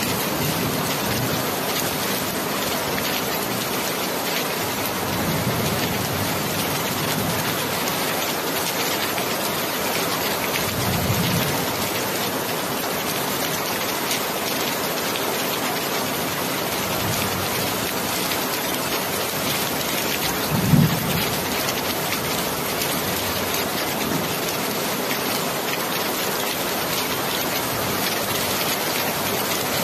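Steady rain falling on a surface, an even hiss. A few brief low thuds come through, the sharpest about two-thirds of the way through.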